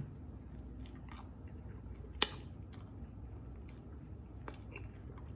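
A man chewing a mouthful of breakfast burrito: faint, scattered mouth clicks and smacks, with one sharper click about two seconds in, over a low steady hum.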